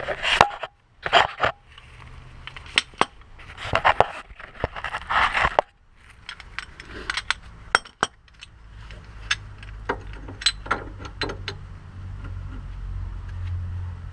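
Metal tools and parts clinking and scraping, with a scattered string of sharp clicks. A low steady hum comes in near the end.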